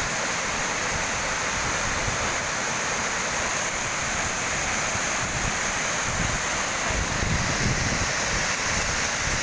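Steady rushing of a waterfall close by, an even roar of falling water without breaks.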